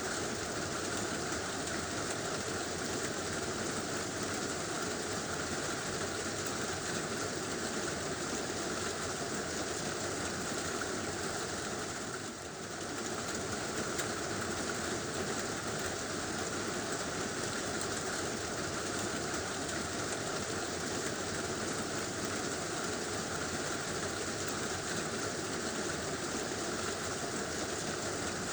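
Heavy rain drumming steadily on a tin roof, with a brief lull about twelve seconds in.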